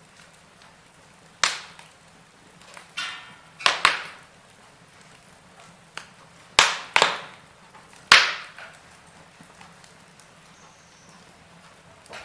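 Wood fire crackling in a fireplace: about eight sharp pops and snaps at irregular intervals, the loudest clustered between about six and eight and a half seconds in, over a faint steady low background.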